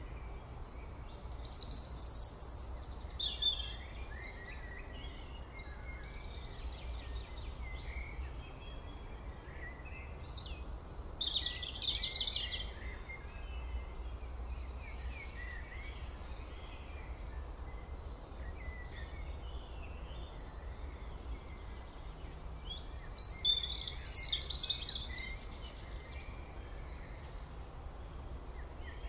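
Birds chirping and singing over a steady low rumble, with three louder spells of song: near the start, about twelve seconds in, and near the end.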